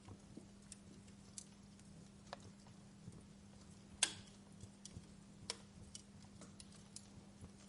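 Wood fire crackling in a fireplace: scattered sharp pops and snaps at irregular intervals, with one louder pop about four seconds in.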